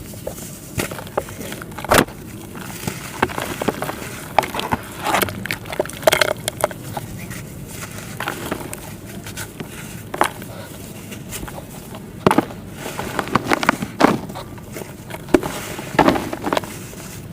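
Sandy clay being crumbled and crunched by hand: irregular crackles and sharp snaps in uneven clusters, with a few louder cracks.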